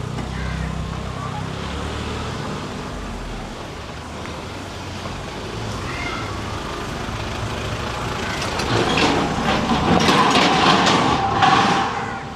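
Street traffic: a motor vehicle's engine rumbling, then growing louder as it passes close, loudest in the last few seconds.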